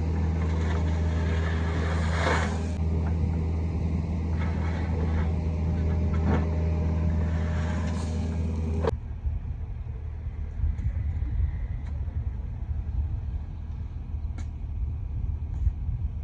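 Kobelco SK55 mini excavator's diesel engine running with a steady hum during trench digging. About nine seconds in, the sound changes abruptly to a rougher, lower rumble with a few faint ticks.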